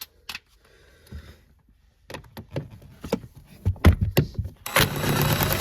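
A few clicks and knocks as the tool is set on the seat-rail bolts, then, near the end, an impact wrench runs for about a second, backing a bolt out.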